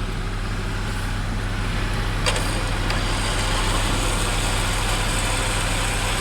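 A vehicle engine idling steadily with a low, even hum, and a single sharp knock about two seconds in.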